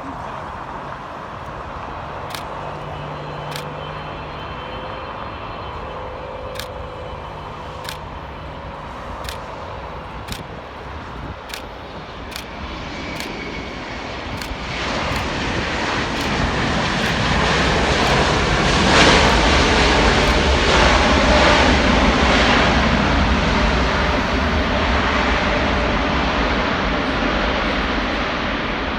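Boeing 777-300ER's GE90 jet engines, a steady noise that grows much louder about halfway through as the airliner comes close, then eases off slowly.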